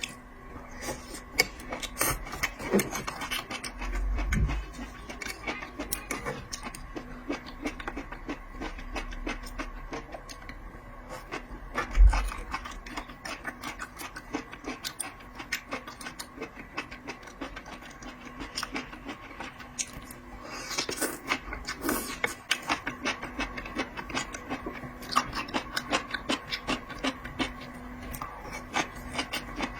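Close-up eating and food-handling sounds from raw seafood: many small clicks, scrapes and wet mouth sounds over a steady low hum, with one louder thump about twelve seconds in.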